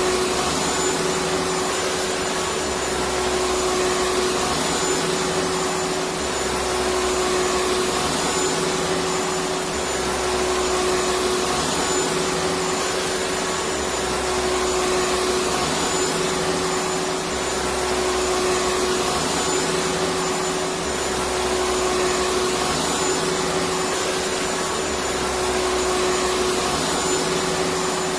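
Electric vacuum cleaner running continuously: a steady rushing noise with a constant motor whine and a slight low pulsing that repeats every couple of seconds.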